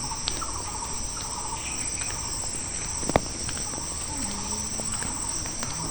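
Steady high-pitched chorus of insects chirring in roadside vegetation, with one sharp tap about three seconds in.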